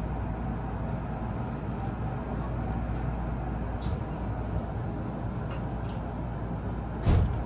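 Hakone Tozan Railway train running on the mountain line: a steady low rumble, with a few faint ticks and one sharp, loud knock about seven seconds in.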